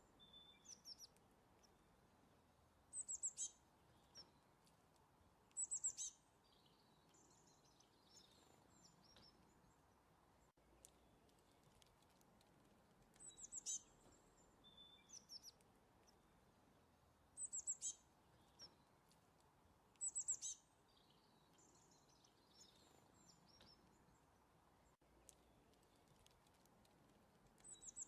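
Birds chirping: short clusters of quick high chirps every few seconds, over a faint steady hiss. The same run of calls comes round again after about fourteen seconds.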